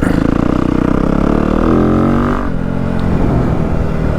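Yamaha WR250F's single-cylinder four-stroke engine running through a stock YZ slip-on exhaust. It revs up in a rising pitch about halfway through, then drops back off suddenly.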